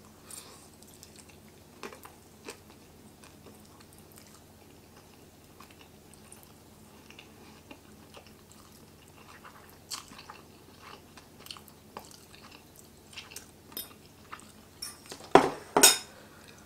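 A person chewing mouthfuls of spicy instant noodles close to the microphone, with soft wet mouth clicks and smacks scattered throughout. Two louder sharp sounds come near the end.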